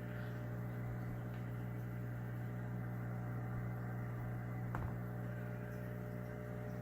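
Steady low electrical hum of running aquarium equipment, with a faint click a little under five seconds in.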